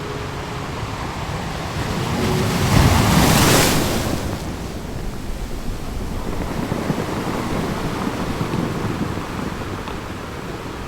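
Waves washing in, a steady rushing noise with one louder surge about two to four seconds in.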